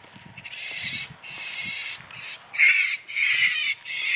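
Strange harsh, raspy crow-like caws played through a loudspeaker, about six in quick succession.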